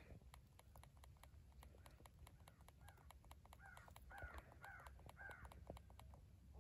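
Faint crow caws played through an electronic game caller: a run of about five caws in the second half, over scattered faint clicks.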